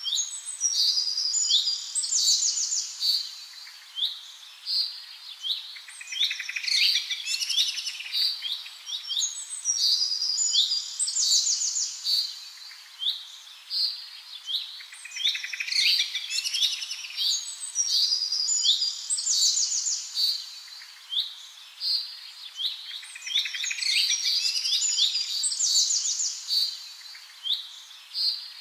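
Birds chirping: a steady run of rapid, high chirps and short trills.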